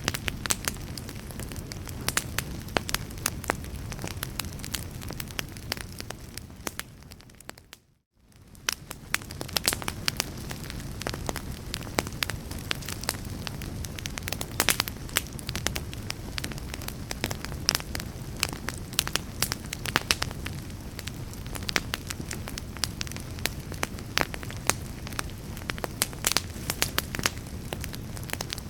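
Wood fire crackling in a fireplace, with frequent sharp pops and snaps over a steady low rumble. About seven seconds in it fades away to near silence, then fades back up a second later.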